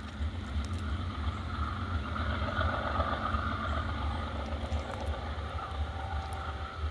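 Local freight switcher train rumbling steadily as it moves off.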